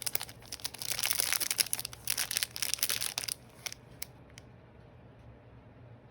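Crinkling of a trading card pack wrapper as it is handled and torn open: a dense run of crackles for about two seconds, then a few isolated crinkles before it goes quiet.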